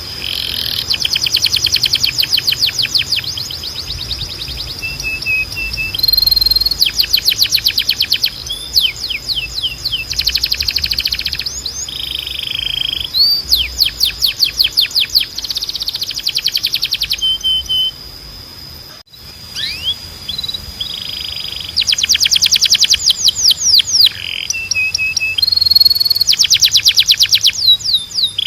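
Male canary singing: fast rolling trills of rapidly repeated notes, each lasting a second or two, alternating with short held whistled notes and rising glides. There is a brief break about two-thirds of the way through.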